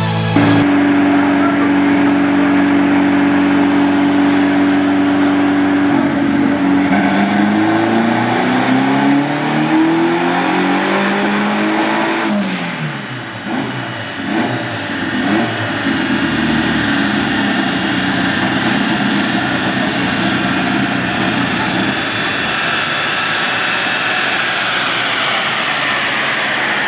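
Car engine held at steady revs, then revving up evenly for about six seconds with a high whistle rising alongside. About twelve seconds in it lets off suddenly, and the revs fall and scatter before it settles into a steady, heavy run for the rest.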